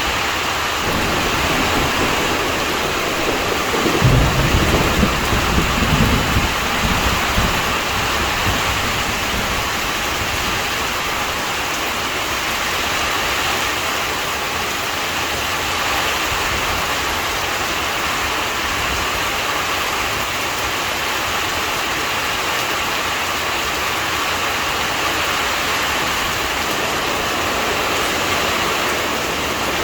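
Steady rain falling during a thunderstorm, with a low rumble of thunder that starts suddenly about four seconds in and dies away over about three seconds.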